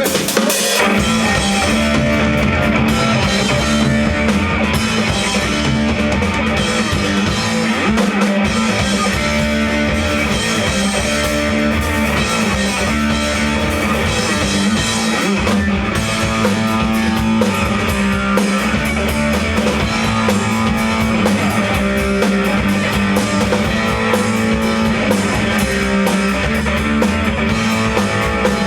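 Rock band playing live, with guitars and a drum kit, the full band coming in right at the start and playing on without a break.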